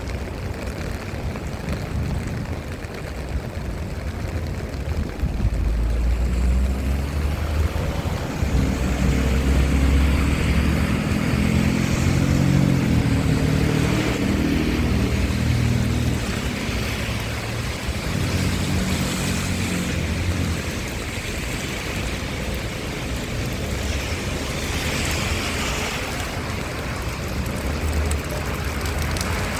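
Steady rain on a city street, with a motor vehicle's engine rumbling close by. The engine swells about five seconds in, is loudest around ten seconds, and fades by about seventeen seconds.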